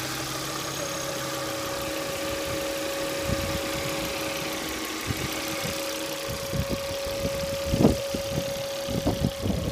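Volvo B5244S 2.4-litre inline five-cylinder engine idling steadily. From about three seconds in, irregular knocks and clicks sound over it, loudest near the end.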